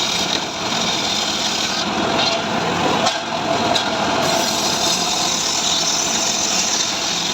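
Stihl MS 382 two-stroke chainsaw running steadily under load, ripping through dry mahogany.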